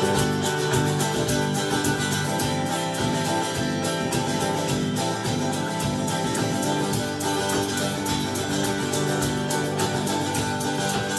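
Instrumental music: a strummed acoustic guitar playing a country-style accompaniment at a steady beat.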